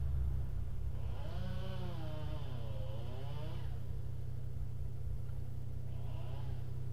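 Car engine idling, a steady low hum heard from inside the stationary car's cabin. About a second in, another vehicle's engine note comes up, dips in pitch and rises again before fading, with a shorter rise and fall near the end.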